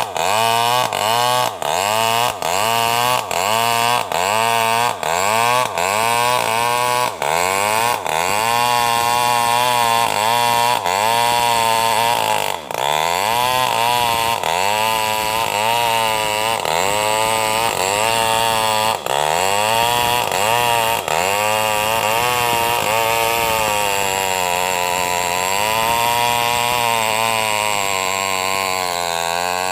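Small two-stroke New West NW588 mini chainsaw running at high revs while ripping a sengon log lengthwise. For the first several seconds its pitch dips and recovers every half second or so as the chain bites and eases, then it runs steadier under load with an occasional dip.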